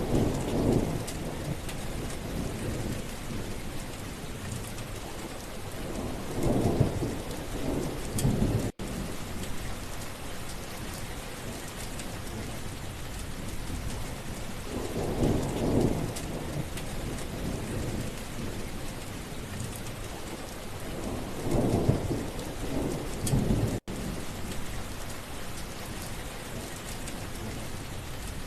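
Steady heavy rain falling. A low rumble of thunder swells and fades several times: near the start, twice around the middle and again near the end. The sound cuts out for an instant twice.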